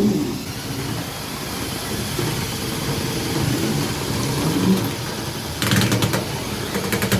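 Electric motors of Lego combat robots whirring as they drive around the arena. A rapid burst of clattering plastic hits about six seconds in, as the robots collide.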